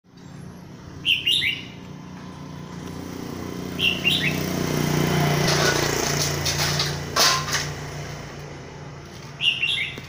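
A bird calling three times, each call a quick run of two or three falling chirps. Under it a low hum swells and fades through the middle, and a few sharp clicks fall around the loudest part.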